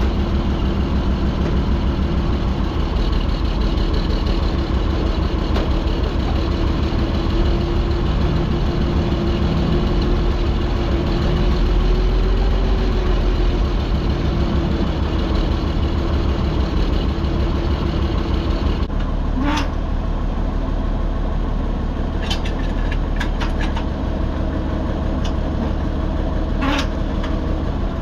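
Farm tractor engine running steadily. About two-thirds in the sound changes suddenly and drops a little in level, and a few sharp clicks or knocks follow.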